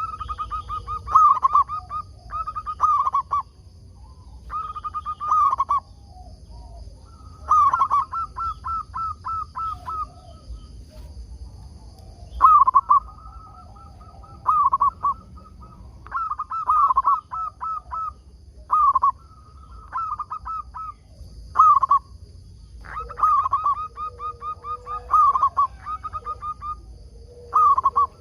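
Zebra dove (perkutut) cooing: about a dozen phrases of quick, rhythmic staccato coos, one after another with short pauses between them.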